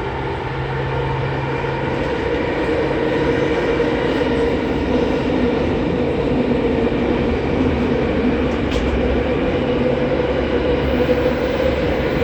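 Running noise heard from inside a JR East E231 series 800-subseries commuter train travelling through a subway tunnel: a continuous rumble of wheels on rail with steady humming tones. It grows a little louder over the first few seconds.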